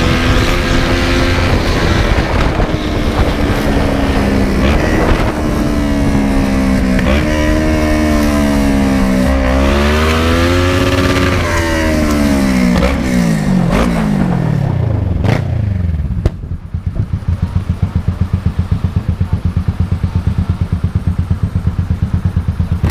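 Kawasaki ER-6n's 650 cc parallel-twin engine with a very loud exhaust, revving up and down through the gears while riding. About 15 seconds in the revs drop away and it settles into a steady, pulsing idle.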